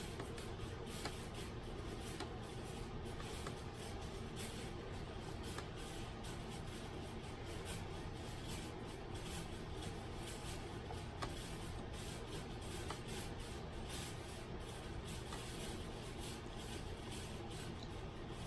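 Faint scratching of writing on paper, with light rubbing, over a steady background hiss.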